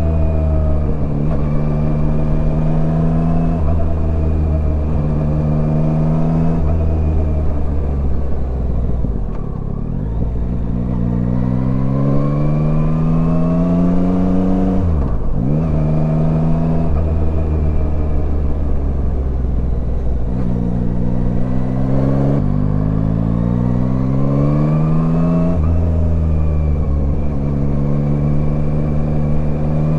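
Yamaha Tracer 9's inline three-cylinder engine running under way, holding steady revs, then twice climbing in pitch as the bike accelerates. There is a short sharp dip in pitch about halfway through and a step down a little later, as at gear changes.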